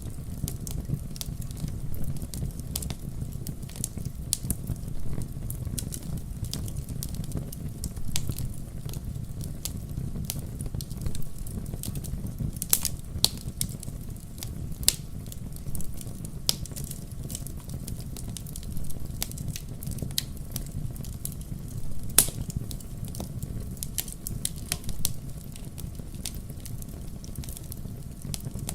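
Wood fire crackling in a fireplace: a steady low rumble of flames with a constant scatter of sharp crackles and occasional louder pops, the loudest about 22 seconds in.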